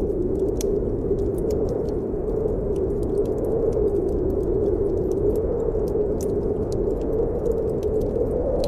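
Snowstorm wind howling steadily, its pitch slowly rising and falling, over a wood fire in a fireplace crackling with frequent small sharp pops.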